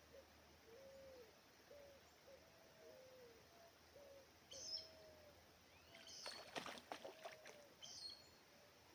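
Faint series of short, low hooting notes from a bird, about two a second, with a few high chirps from another bird. A quick cluster of clicks and rattles a little past halfway is the loudest sound.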